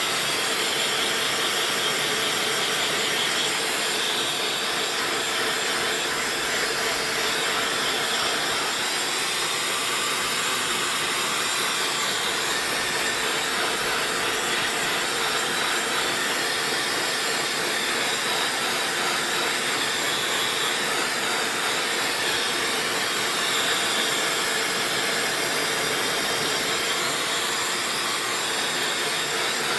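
Dyson hair dryer running steadily: an even rushing of air with a faint high whine from its motor, unchanging throughout.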